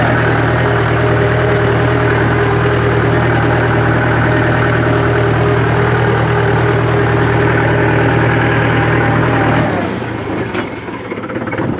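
Tractor diesel engine running steadily at high revs under load, then dropping away suddenly about ten seconds in, leaving quieter noise.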